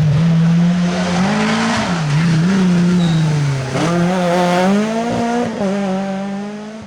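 Rally car engine at full song on a special stage, its note rising and falling several times as the driver lifts off and gets back on the throttle, then fading slightly near the end.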